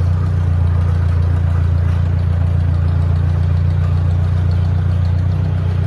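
Vehicle engine running steadily, a constant loud low drone.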